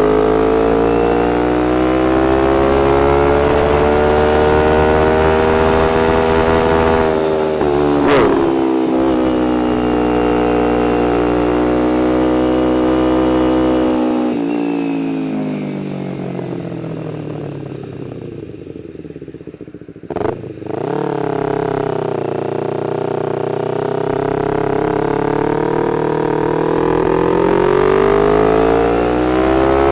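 Motorcycle engine running under way, its pitch rising and falling with the throttle and gear changes. About two-thirds through it winds down to a low, quieter run as the bike slows, there is a sharp click, and then it pulls away with the pitch climbing again.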